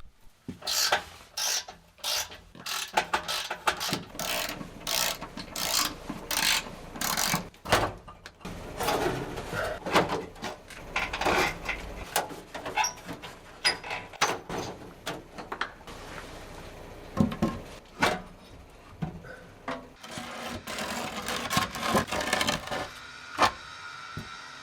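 Hand-tool work on a car exhaust as it is taken off: a run of regular rasping strokes, about two a second, then irregular metal clanks and scrapes.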